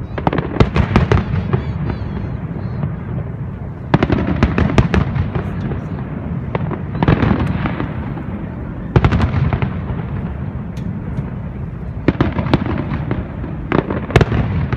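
Aerial firework shells bursting in quick clusters of sharp bangs, a new cluster every two to three seconds, over a steady low background noise.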